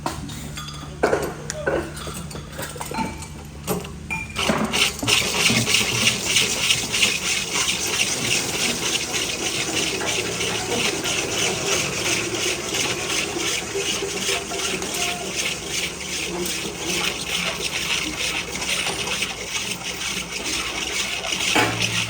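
A few knocks and clicks, then from about four seconds in a drill turns a hole saw through the workpiece in one long steady cut with a fast chatter, stopping shortly before the end.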